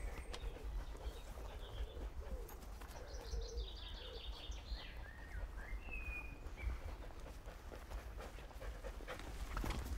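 Outdoor birdsong: a run of quick high chirps about three to five seconds in and a few short whistled notes around six seconds, over a steady low rumble.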